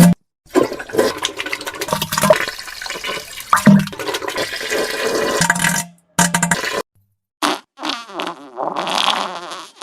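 Wet diarrhea and fart sounds: one long stretch of splattering noise with short low blasts, then several shorter bursts, each cut off sharply by a moment of silence.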